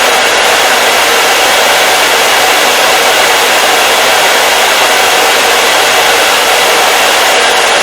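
Hair dryer running steadily, an even, unbroken hiss.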